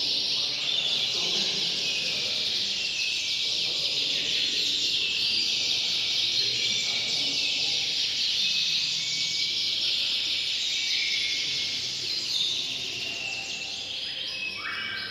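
Domestic canaries singing together in a dense, continuous chorus of rapid high trills and chirps.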